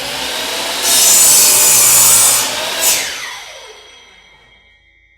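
Miter saw cutting a pressure-treated 2x4: the motor is already running, the blade goes through the wood for about a second and a half, then the motor winds down with a falling whine that fades away.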